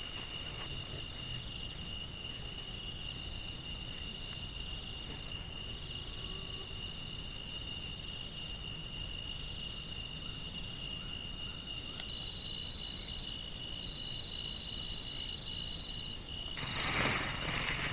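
Steady chorus of insects, crickets or cicadas, holding several high, even tones, over a low rumble. Near the end there is a brief, louder rush of noise.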